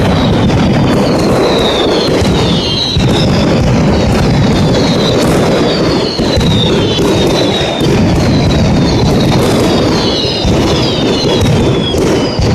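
Mascletà firecrackers going off in a dense, unbroken barrage of rapid bangs, loud throughout, with whistling fireworks giving repeated falling whistles over the top.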